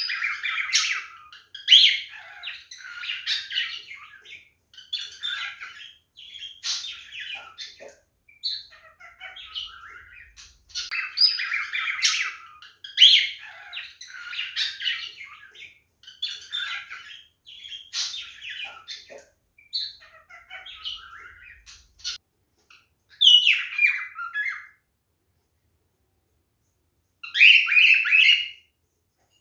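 Male cockatiel singing and chattering: a long, almost unbroken run of warbled chirps, whistles and squawks, then a pause of about two seconds and one last short burst near the end.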